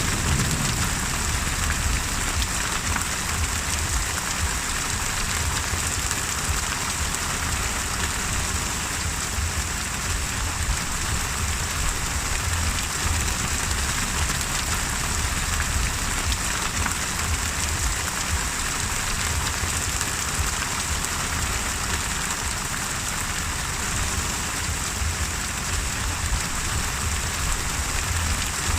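Steady, heavy rain falling, an even hiss with no breaks, over a constant low rumble.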